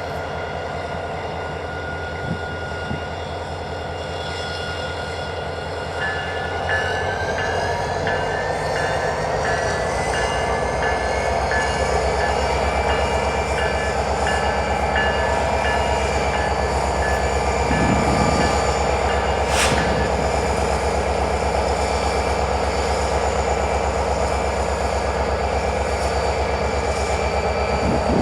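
Train running past with a steady low diesel rumble, and a whine above it that rises in pitch about six seconds in and then holds steady.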